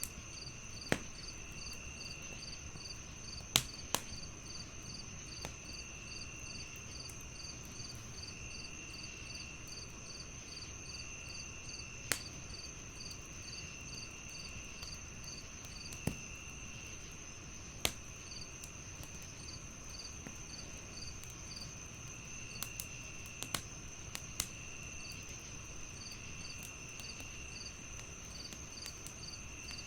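Crickets chirping in several overlapping layers: a steady high ring, rapid pulsing chirps, and a lower trill that comes and goes in bursts of about a second. Over them, a wood fire crackles, with sharp pops every few seconds.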